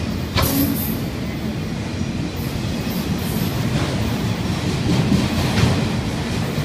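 Freight train cars rolling past close by: a steady rumble of steel wheels on rail, with several sharp clacks as the wheels cross rail joints.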